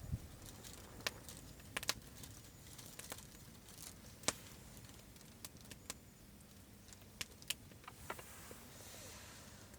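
Scattered sharp clicks and taps at irregular intervals, about a dozen, over a faint steady background.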